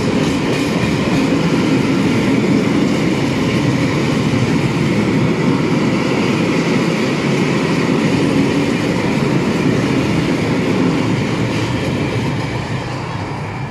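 Freight train of high-sided open wagons rolling past close by: a loud, steady rumble and rattle of wheels on rails, easing off near the end as the last wagon goes by.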